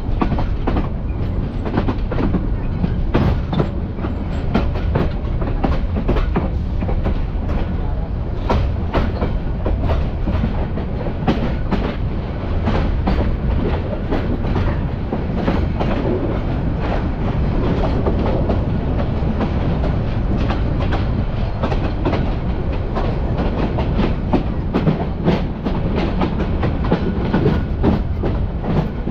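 Bangladesh Railway passenger train running, heard from inside the carriage: a steady rumble with frequent, irregular clacks and knocks of the wheels on the track.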